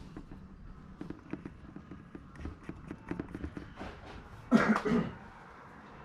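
Light metal clicks and taps of bolts and hand tools being handled during the water pump fitting, then a loud double cough about four and a half seconds in.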